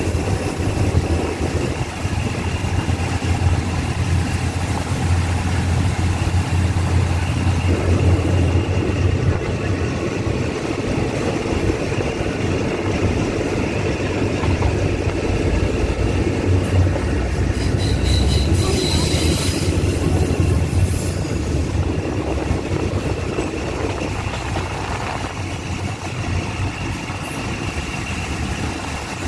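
Passenger train running along the track, heard at an open carriage window: a steady rumble of wheels on rails and a low engine hum, with a brief high squeal from the wheels about two-thirds of the way through.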